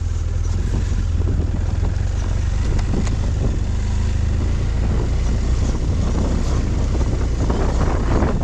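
Wind buffeting the camera microphone on a moving motorcycle, a steady low rumble with rushing noise over it.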